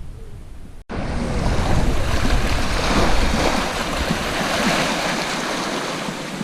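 Sea surf washing on the shore, with some wind on the microphone. A brief dropout about a second in, after which the wash is louder, swelling and then easing.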